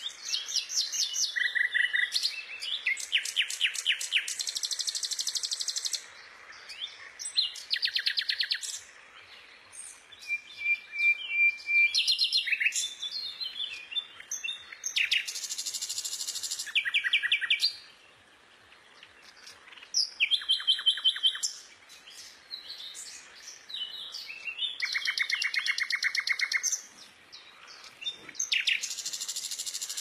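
Birds calling: repeated bursts of fast chattering trills, each a second or a few long with short pauses between, and a few clear whistled notes among them.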